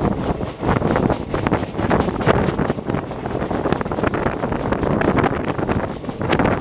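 Passenger express train running at speed, heard from on board: a steady rumble of the moving coach, with wind buffeting the microphone and a few scattered clicks.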